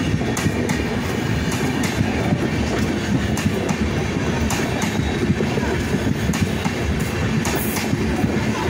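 Indian Railways express train's sleeper coaches rolling past at speed: a steady wheel-on-rail rumble with irregular clicks as the wheels cross the rail joints.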